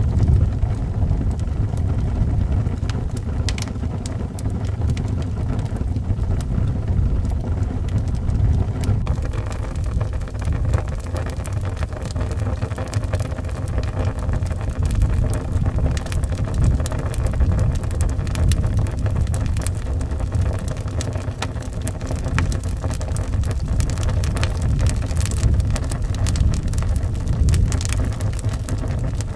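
Wind howling in a low, steady rumble, with a wood fire crackling over it; the crackles come thicker from about a third of the way in.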